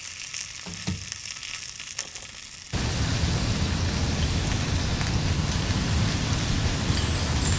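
Food sizzling in a pan with small crackles, then an abrupt cut about three seconds in to steady heavy rain with a low rumble underneath.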